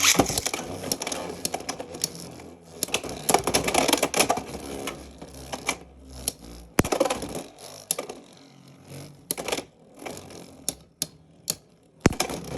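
Two Beyblade X spinning tops launched into a plastic stadium, whirring and clacking against each other in a rapid run of sharp hits. The rattling thins out about halfway through into scattered clicks and a few hard single impacts.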